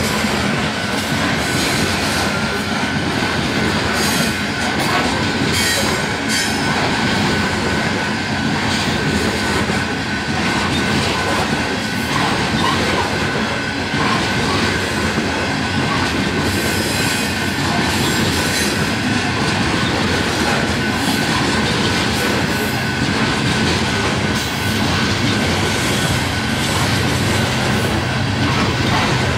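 Coal train gondola cars rolling past at close range: steel wheels rumbling on the rails with scattered clacks over joints and a steady high wheel squeal.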